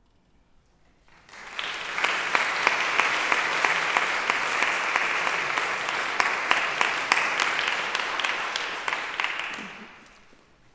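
Audience applauding: it starts about a second in, swells quickly to a full, dense clapping, holds, and dies away shortly before the end.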